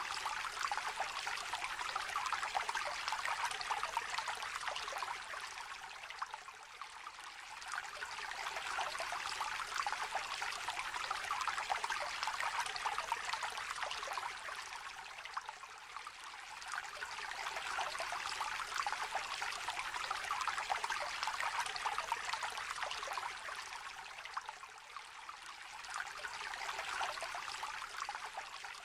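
Shallow river trickling and babbling, a steady watery rush that swells and eases roughly every nine seconds.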